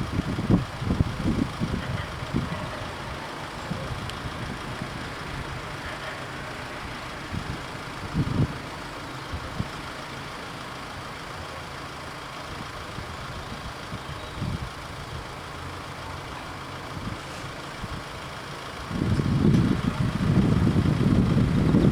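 Wind buffeting the microphone in irregular gusts, strongest for the first couple of seconds and again from about 19 seconds on, with a steady faint hiss between the gusts.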